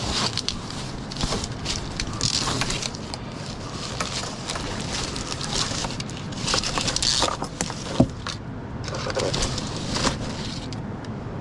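Handling noise as a power cable is straightened and tidied: irregular rustling and clicks, with one sharp click about eight seconds in, over a steady wash of surf.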